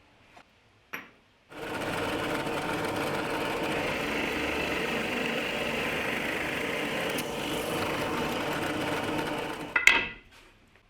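A small electric power tool runs steadily for about eight seconds, starting abruptly and stopping shortly before the end, followed by a sharp knock.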